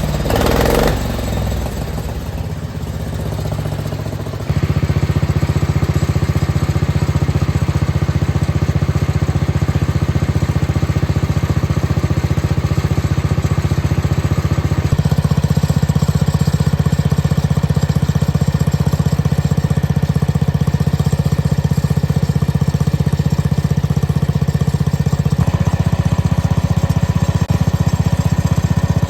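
Small tractor engine with a nearly straight-piped, loud exhaust, running shortly after a cold start on choke. About four seconds in it jumps up to a louder, steady run, shifting a little around fifteen seconds in.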